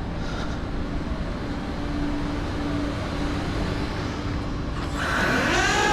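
Steady outdoor traffic noise. About five seconds in, a motor whine starts, rises quickly in pitch and then holds steady and louder: the tow truck's winch drive starting up to pull the car onto the bed.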